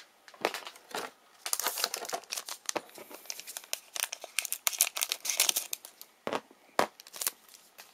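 Trading-card pack wrapper being torn open and crinkled in the hands: a dense run of sharp crackles, with a few separate crackles near the start and end.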